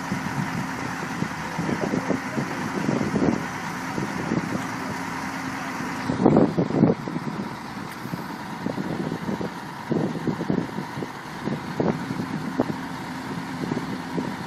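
Heavy machine's diesel engine running steadily, with irregular knocks and clanks, the loudest cluster about halfway through.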